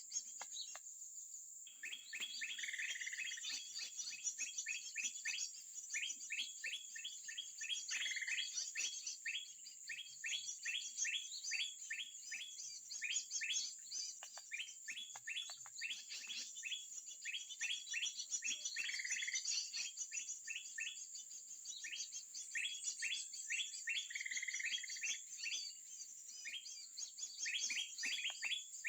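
Bird chirping in rapid repeated short notes, about three or four a second, after a short pause at the start. A steady high-pitched drone runs underneath.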